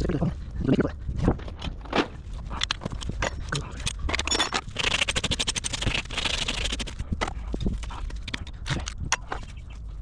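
Farrier's tools working a horse's hoof during shoeing: a run of sharp taps and knocks, with a stretch of rapid, high-pitched rasping strokes through the middle.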